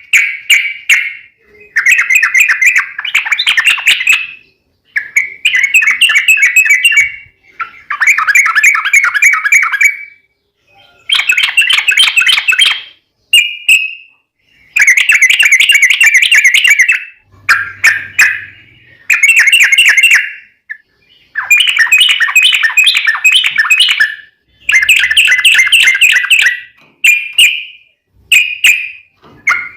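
Yellow-vented bulbul (trucukan) singing its long, rapid chattering song: about ten loud bursts of quick repeated notes, each lasting one to three seconds, with short pauses between them.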